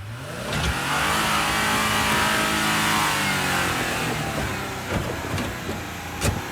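Off-road vehicle's engine revving up hard under load, holding high revs for a couple of seconds, then easing off. A few sharp knocks follow near the end, the loudest just before it.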